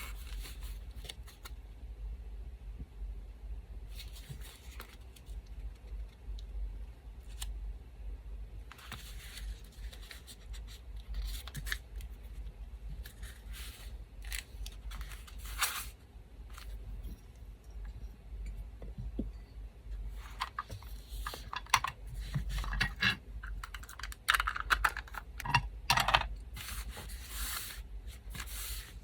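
Paper-crafting sounds: small pieces of paper handled, snipped with scissors and torn, in scattered bursts that grow busier in the second half. A fan hums steadily underneath.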